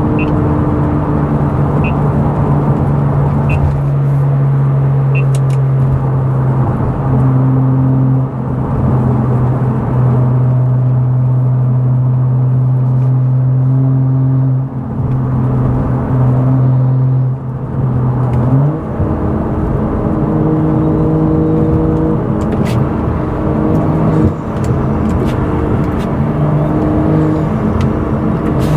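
The tuned turbocharged straight-six of a BMW F10 535i driving with a loud exhaust: a steady engine drone at cruise, with the pitch stepping up about two-thirds of the way in and rising and falling after that.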